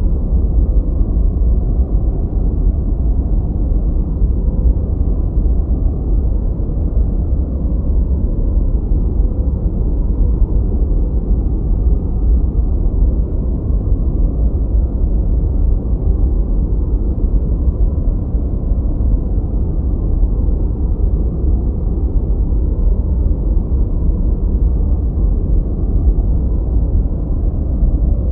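A steady, unbroken noise track played for focus. It is deep and rumbling, with its weight in the bass and no high hiss, more like brown noise than true white noise.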